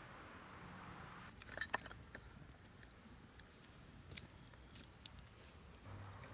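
A few light, sharp clicks and clinks, clustered about a second and a half in and again twice later, over a faint steady hiss.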